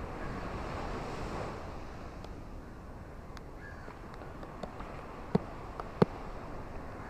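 Ocean surf washing onto a beach in steady rain, a wave swelling over the first second or so. Sharp raindrop taps land close by, scattered through the second half, the loudest two about five and six seconds in.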